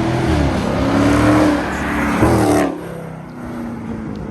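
Car engine revving hard at high revs, its pitch rising and falling, then cutting off sharply a little over two and a half seconds in.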